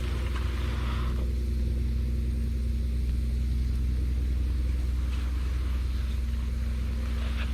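A steady low rumble with a constant hum dominates, with a brief hiss in the first second and faint crackles from a wood campfire of branches and driftwood.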